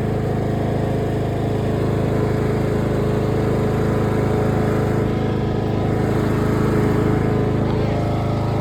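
Cub Cadet lawn mower engine running steadily at a constant speed.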